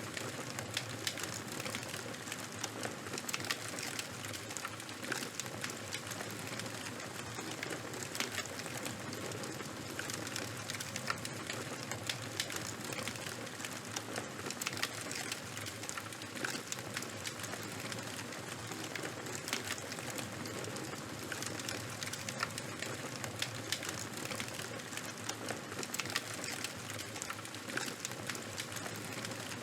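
Charcoal and wood fire burning with constant small crackles and pops over a steady hiss.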